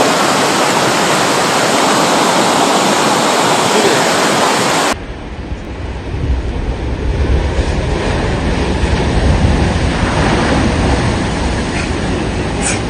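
A loud, steady rushing noise that cuts off abruptly about five seconds in and gives way to a lower, rumbling noise with wind buffeting the microphone.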